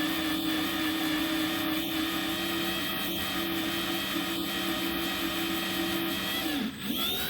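Electric drill boring into a broken steel bolt, its motor running with a steady whine, then winding down about six and a half seconds in. The bit is chewing its way through the steel to make a pilot hole for a screw extractor.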